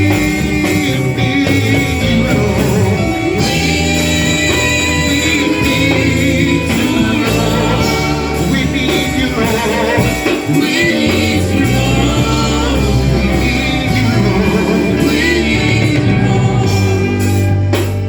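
Live gospel worship music: a band playing with voices singing over it, continuous and loud.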